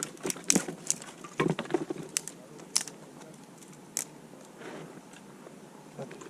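Dry, frost-dried twigs and small branches being snapped and broken by hand: a string of sharp, irregular cracks and crunches, busiest in the first two seconds.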